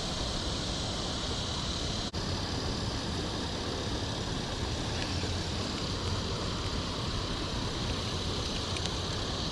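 Steady rushing noise of flowing creek water below a falls, even throughout with one brief dropout about two seconds in.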